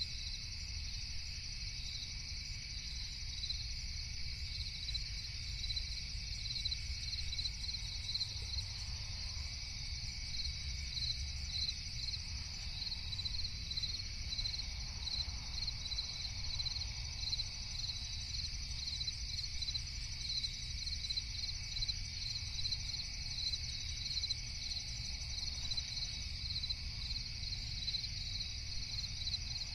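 A steady night chorus of crickets, with one chirping in a regular pulse about twice a second, over a low rumble.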